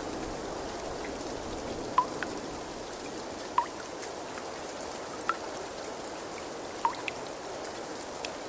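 Steady rush of running water, with single drops plopping into it about every second and a half.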